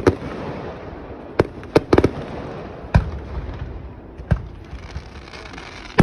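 Aerial fireworks going off: a run of sharp bangs at irregular intervals, several in quick succession around two seconds in, over a steady crackling hiss.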